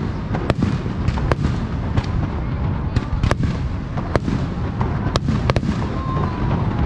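Aerial fireworks bursting over a continuous low rumble of booms, with about ten sharp cracks going off at irregular intervals, some in quick pairs.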